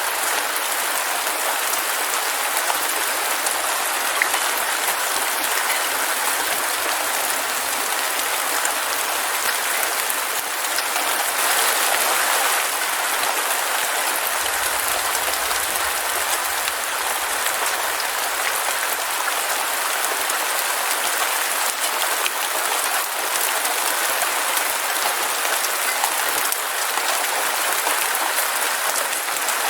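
Heavy rain falling steadily, an even dense hiss with scattered sharper ticks of drops striking.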